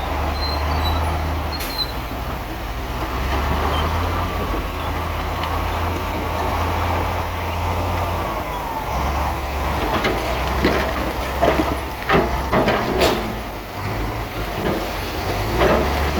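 Heavy diesel construction machinery running steadily with a low engine drone, with a faint squeal in the first half. About two-thirds of the way in comes a run of sharp clanks and knocks, typical of metal tracks, blades and rock.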